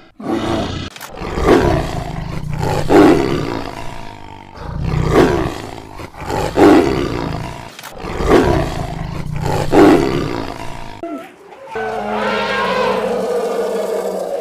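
A large animal roaring about six times, each roar rough and rising then fading, with short gaps between them. Near the end a different, drawn-out call with a steady pitch begins.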